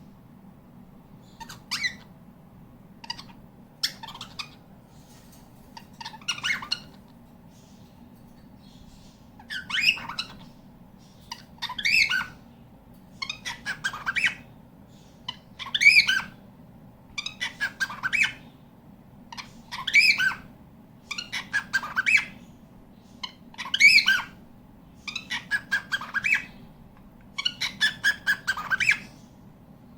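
Cockatiel calling over and over, one call about every two seconds, some broken into quick stuttering runs, getting louder about ten seconds in. A steady low hum lies underneath.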